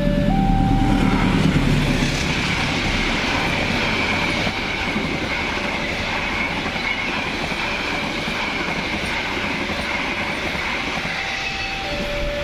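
A diesel-hauled passenger train passing close: the locomotive's low engine rumble for the first couple of seconds, then a steady rush of the coaches' wheels on the rails with a high ringing tone. The level crossing's electronic warning alarm, two alternating tones, sounds at the start and again near the end as the train clears.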